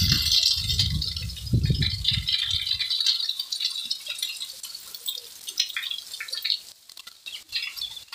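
Heavy rain falling, a steady hiss of drops with scattered drips and taps, a cluster of sharper taps near the end. Low buffeting rumbles on the microphone for the first three seconds, then stop.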